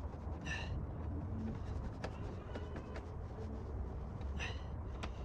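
Hand tools working the last screws on a motorcycle, heard as faint scattered clicks over a steady low rumble, with two short high chirps about half a second in and near the end.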